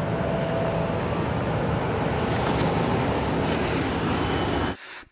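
Two-wheeler engine running steadily with a low hum. The sound cuts off just before the end.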